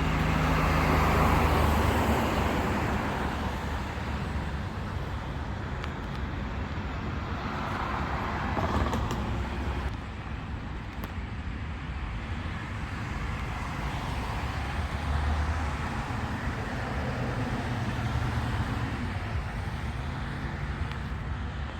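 Road traffic: cars passing one after another, the sound swelling as each goes by over a steady low engine hum.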